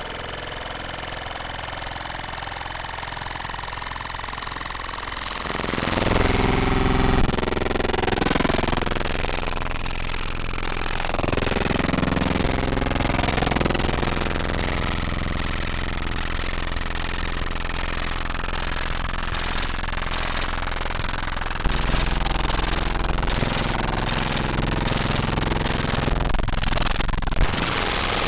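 Loud, harsh mechanical noise, like a machine or engine running, with a rapid rough rattle. It grows louder about six seconds in and then continues steadily.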